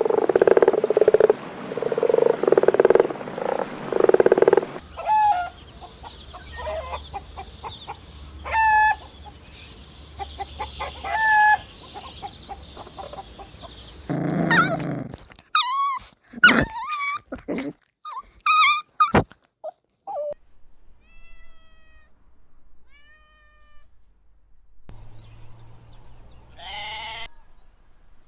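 A succession of different animal calls, changing abruptly several times: repeated low calls at first, then shorter chirping calls, then loud pitched calls, and a last call near the end.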